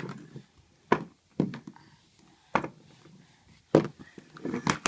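Irregular knocks and thumps, about six of them, as a toddler bumps and handles a toy fire truck.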